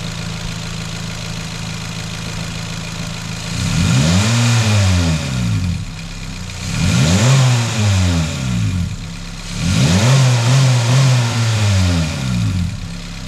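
2019 Honda Civic Sport's 2.0-litre K20C2 four-cylinder engine with a catless RV6 downpipe, heard at the open hood: idling steadily, then revved three times, each rev climbing and dropping back to idle, the third held at the top for a couple of seconds before falling.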